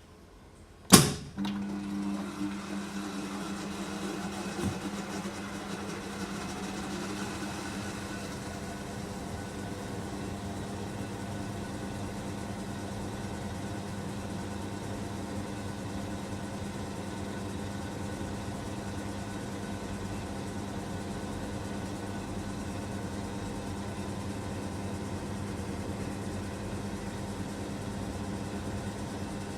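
A sharp click about a second in, then the motor of a first-generation SANYO sneaker washing machine starts and runs steadily with a hum as it spin-dries shoes. The motor has a grinding noise, which seems to be nothing wrong.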